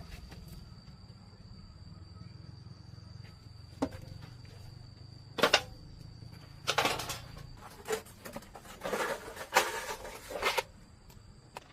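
Sharp knocks and short clattering, scraping bursts of metal parts and hand tools being handled, with a low steady hum that dies away after about seven seconds.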